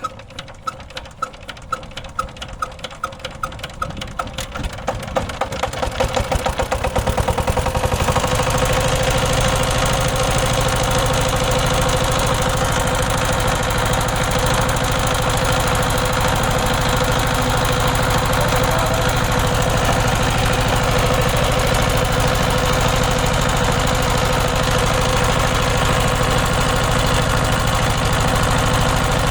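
16 HP power tiller engine starting: slow, separate firing beats that quicken and grow louder over the first eight seconds or so, then steady running.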